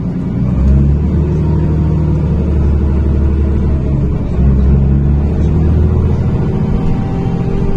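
NefAZ-5299-40-52 city bus engine running, heard from inside the passenger cabin: a steady low hum that swells slightly twice.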